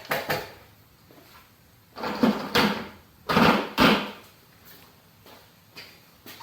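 Hand-work clatter: a few sharp clacks, then two longer rattling scrapes about two and three and a half seconds in, like hardware or a panel being handled.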